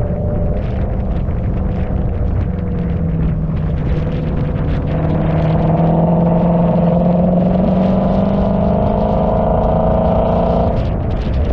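Car engine running under load, its pitch climbing slowly for several seconds, then dropping suddenly near the end, as at a gear change.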